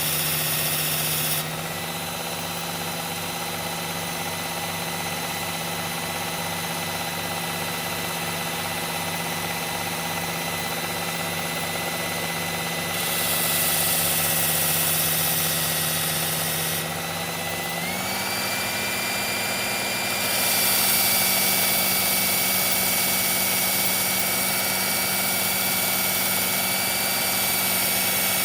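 Electric belt knife sharpener running steadily, its motor pitch stepping up about two-thirds of the way through. A high grinding hiss comes in twice as the steel blade is drawn across the abrasive belt.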